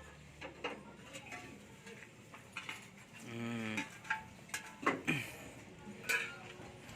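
Scattered light clicks, clinks and knocks of small hard objects being handled, with one short wavering call, voice- or bleat-like, about halfway through.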